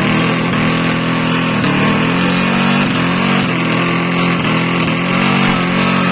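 Drag-racing underbone motorcycle engine running at steady revs, its pitch wavering slightly now and then.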